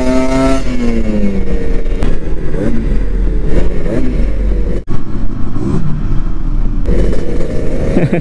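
Kawasaki Ninja RR 150's two-stroke single-cylinder engine under way, its pitch climbing and then dropping off about half a second in as the throttle is eased, followed by shorter rises and falls of engine note. Heavy wind rumble on the microphone runs under it.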